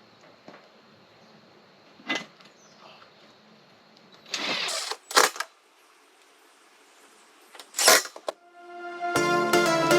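Work noises from fitting metal roof support braces: a short hissing burst with a sharp click just after it, and another sharp click about eight seconds in. Plucked-string background music starts near the end.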